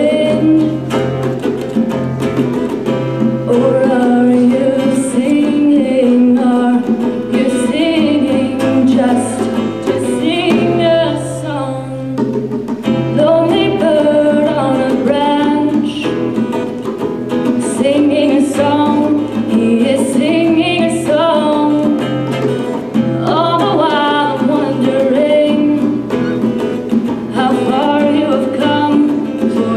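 Live song: a voice singing a melody, accompanied by guitar.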